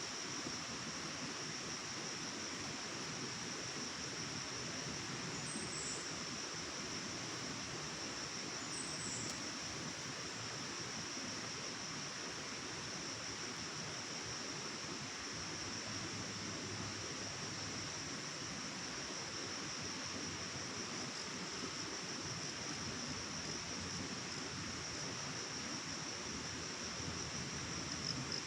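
Forest ambience: a steady, high-pitched insect drone over a broad, even hiss, with two short, high bird chirps about five and nine seconds in.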